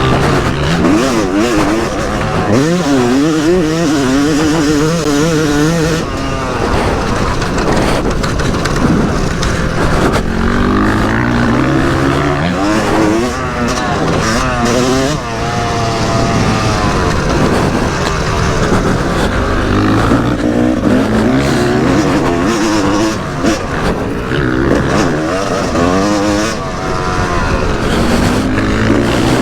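Yamaha YZ250 single-cylinder two-stroke dirt bike engine being ridden hard, its revs climbing and dropping again and again as the throttle is opened and shut.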